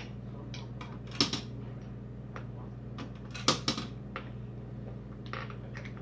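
Plastic Connect Four discs clicking and clattering: two louder clacks, about a second in and about three and a half seconds in, with lighter ticks between, over a steady low hum.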